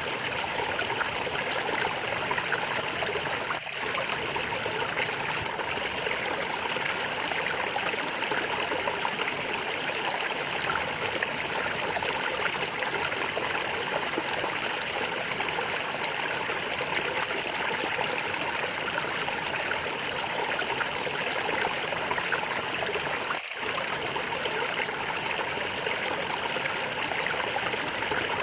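Flowing water gurgling steadily, like a small stream running over stones, with two momentary dips in level about four seconds in and near the end.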